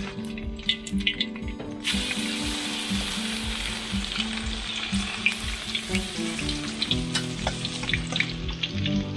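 Battered fish frying in hot oil: a steady sizzle with many sharp crackles and pops, growing denser and louder about two seconds in. Low background music runs underneath.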